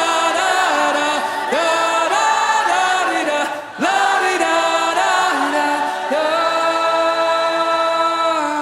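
Live worship song with voices singing a melody that scoops up into each phrase, ending on a long held note that stops near the end.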